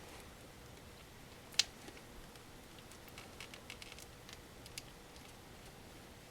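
Faint handling clicks of a screwdriver and small plastic headphone parts being worked by hand: one sharper click about a second and a half in, then a scatter of light ticks.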